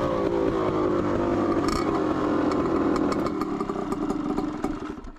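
Dirt bike engine running at low revs, its pitch easing down in the first second and then holding steady, fading away near the end.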